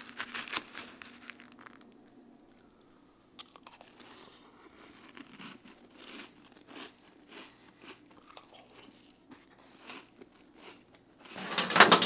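Spoon clinking in a bowl of crunchy dry cereal, then a person chewing mouthfuls of it: a long run of short, crisp crunches. Near the end a sudden loud rustling clatter cuts in.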